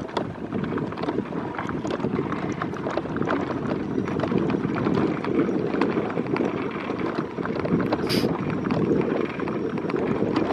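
Wind rushing over the microphone with the steady rumble and many small rattles of a small vehicle rolling over bumpy grass. A short high-pitched sound cuts through about eight seconds in.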